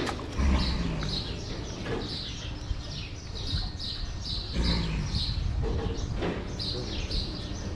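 Small birds chirping over and over. A louder, deep low sound comes about half a second in and again near five seconds.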